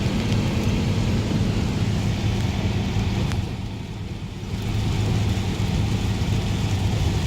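Hiss of heavy rain over the steady low rumble of a moving pickup truck, heard from inside the cab. The noise eases briefly about halfway through.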